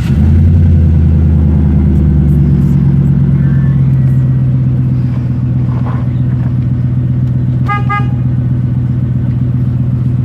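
Chevrolet Silverado's Vortec V8 catching and running loud and steady just after start-up, at a high idle that eases down a little after about four seconds. A short high-pitched beep sounds about eight seconds in.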